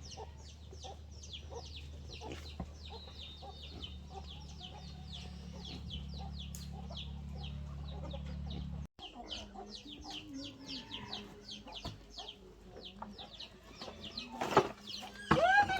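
Chickens clucking, with a constant run of quick, high chirps and a loud call near the end. A low steady hum underneath cuts off abruptly about halfway through.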